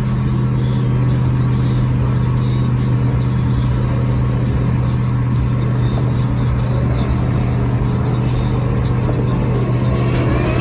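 Car running with a steady low drone, its pitch starting to rise near the end, with music playing along.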